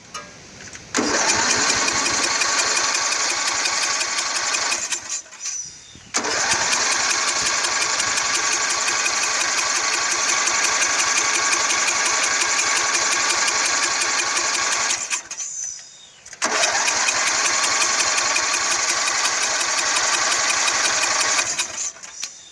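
A 2003 Sears lawn tractor's engine being cranked by its electric starter in three long tries, about four, nine and five seconds, with short pauses between them. The engine turns over fast and evenly but does not start.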